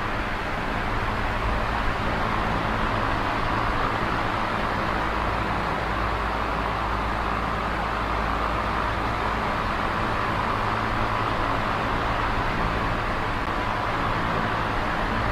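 Small electric oscillating fan running steadily: an even whir of moving air with a low motor hum underneath.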